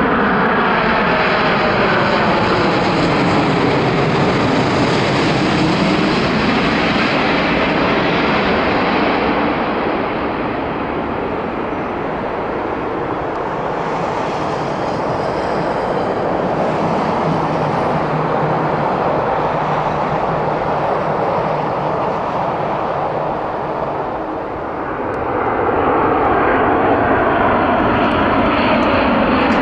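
Jet airliner engines passing low overhead on landing approach, with a whine that falls in pitch as the aircraft goes by, easing into a steadier, slightly quieter engine noise. Near the end a second airliner's engine noise swells, again with tones falling in pitch.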